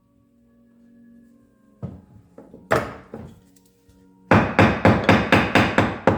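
Hammer blows: a knock, a single blow, then a quick run of about seven blows, roughly three a second, near the end.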